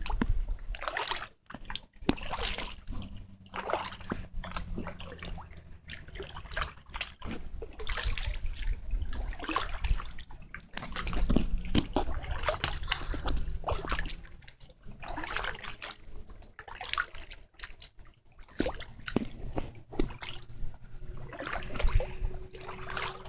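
Kayak paddle strokes: the blades dipping and splashing in the water, with water trickling and dripping off them between strokes.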